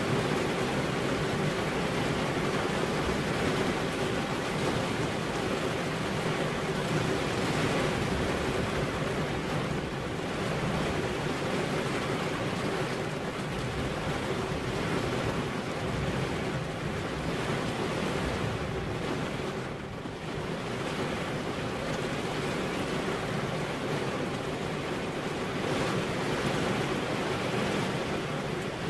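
Steady heavy rain falling: a dense, even hiss with no single drops or thunder standing out, easing slightly for a moment about two-thirds of the way through.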